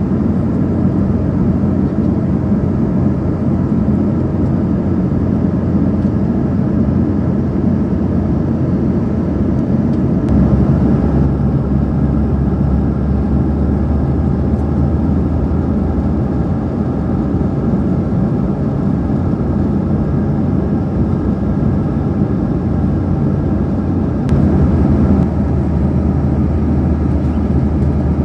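Steady rumble of a moving vehicle heard from inside, an even noise with a low drone that shifts slightly about ten seconds in and again near the end.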